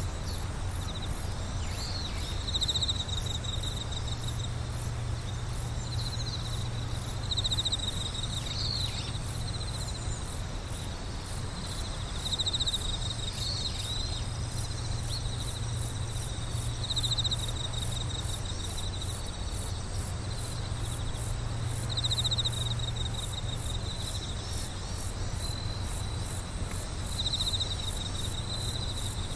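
Singing insects calling together: a fast, unbroken high trill, with short pulsed chirps at a lower pitch repeating every two to three seconds. A steady low hum runs underneath.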